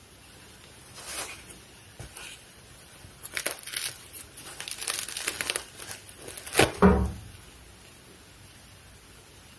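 Crisp crackling and crinkling of food being handled or eaten, a run of short crackles that ends in the loudest crackle and a dull thump about seven seconds in.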